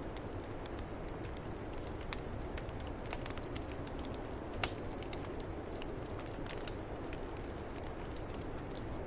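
Wood fire crackling with scattered sharp pops, one louder pop about halfway through, over the steady low rush of a snowstorm wind.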